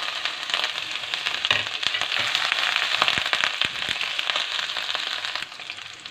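Chopped ginger hitting hot oil with garlic and dried red chillies in a kadhai, sizzling loudly with dense crackling as it is stirred in. The sizzle eases off near the end.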